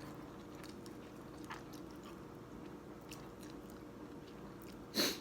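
Faint chewing and small mouth clicks from someone eating noodle soup, over a steady low hum. There is one short, louder noisy burst near the end.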